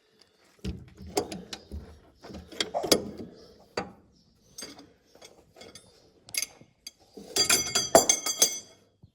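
Metal hand tools clicking, knocking and scraping against steel combine parts during wrench work, with a denser ringing metallic clatter about a second before the end.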